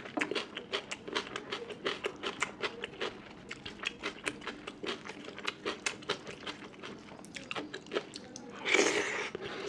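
A person chewing food close to the microphone: a steady run of short wet mouth clicks and chews, several a second. Near the end there is a louder, noisier burst lasting about half a second.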